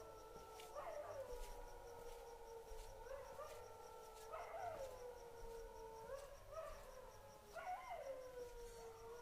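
Faint canine howling: several long wails held at once at different pitches, with a new call rising and then falling away about every three and a half seconds.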